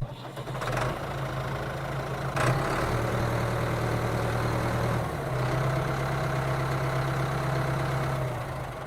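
Motor running with a steady low hum. Its tone shifts slightly twice, with a click about two and a half seconds in.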